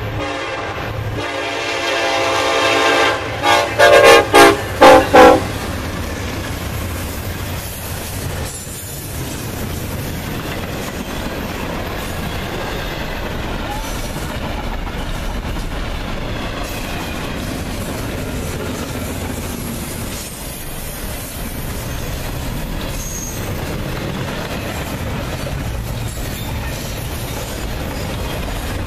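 Locomotive air horn sounding for a grade crossing: a long chord, then a quick series of about five short, very loud blasts. After that, a Norfolk Southern freight train led by SD70ACe NS 1065 runs past with a steady clatter of wheels on rail.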